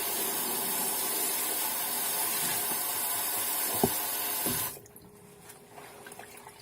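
Water running from a sink tap over fabric being rinsed: a steady rush, with a couple of knocks, that stops abruptly about three-quarters of the way through as the tap is shut off. Small handling sounds of wet fabric follow.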